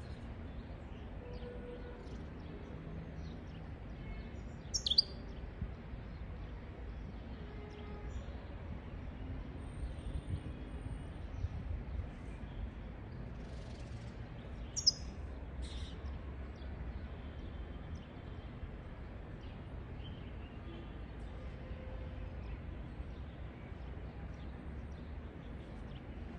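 Steady low background rumble with only a few short, high goldfinch chirps, about five seconds in and twice around fifteen seconds in.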